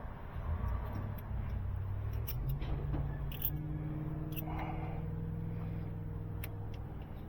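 Scattered light metallic clicks and scrapes of a wrench being worked on engine bolts, over a steady low mechanical hum.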